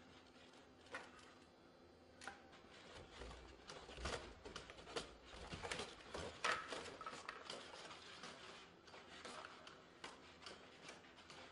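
SpotMini four-legged robot walking: faint, irregular taps and clicks of its feet and joints, busiest about halfway through.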